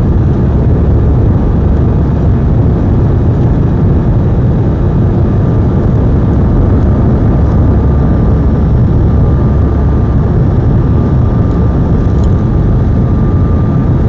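Airbus A319's jet engines heard inside the passenger cabin: loud, steady engine noise with a thin, constant whine running through it.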